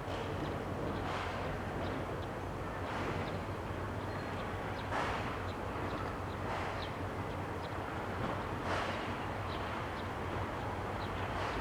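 Steam locomotive at low speed or standing, giving hissing steam puffs about every two seconds over a steady low drone from the locomotives.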